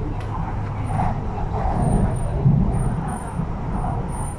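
Interior running noise of an MTR East Rail line R-Train electric multiple unit travelling between stations: a steady low rumble of wheels on rail, swelling a little midway.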